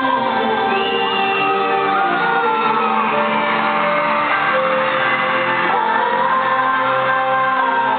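Live pop concert music with singing, reverberant in a large arena, with the audience shouting and whooping over it.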